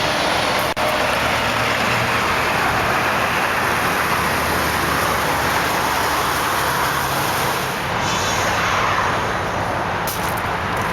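Steady rush of highway traffic passing close by, swelling and easing as vehicles go past, over a Dodge Durango's Magnum V8 idling low underneath. A single brief click sounds about a second in.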